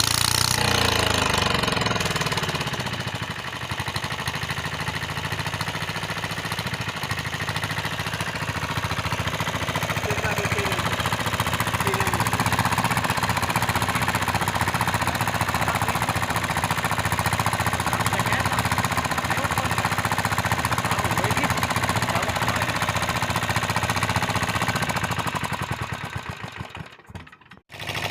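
A 5 HP auto-rickshaw-type engine running with a rapid, steady knocking beat. Its pitch falls over the first few seconds as the revs drop, then holds steady; near the end the sound fades away briefly before coming back.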